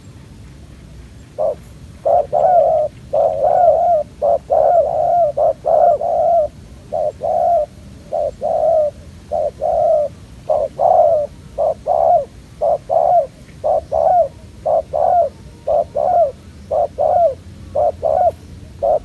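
Spotted doves cooing: short, low coo notes repeated almost without pause, starting about a second and a half in. It is the territorial cooing of doves drawn to a trapper's decoy.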